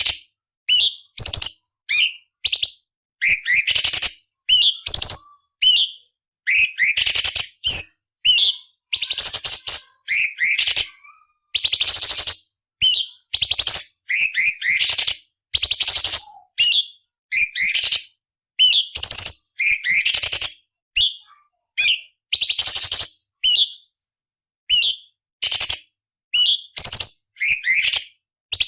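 Cucak cungkok (orange-bellied leafbird) singing in short, fast phrases about once a second. Quick whistled sweeps alternate with harsh, rasping, scratchy bursts.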